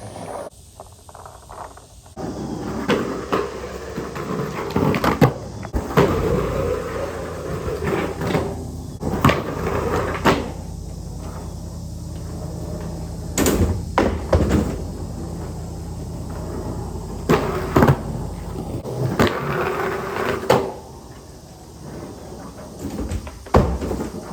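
Skateboard rolling on concrete, with a series of sharp clacks and knocks, about nine in all, as the board pops, lands and hits a curb. Shorter scraping stretches come from the trucks sliding and grinding along the curb.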